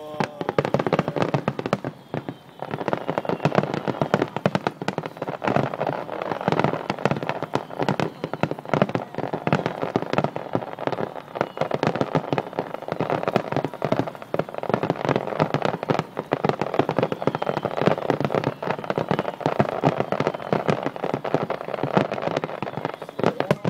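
Dense barrage of aerial firework shells bursting in rapid, overlapping succession: continuous booms and crackling, the climax of a large fireworks display.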